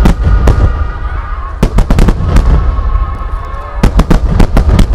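Rapid salvo of large Japanese aerial firework shells (No. 10, No. 8 and No. 7 shells) bursting, the sharp booms coming in quick clusters of several a second, around the start, about two seconds in and again near the end, over a continuous deep rumble of echoing detonations.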